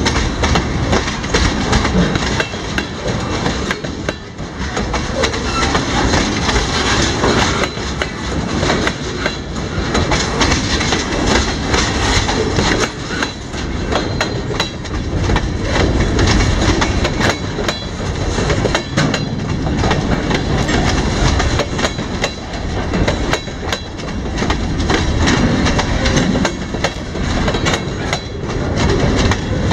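Loud, steady sound of a freight train's autorack and open-top hopper cars rolling past close by: steel wheels clacking over rail joints over a continuous rumble.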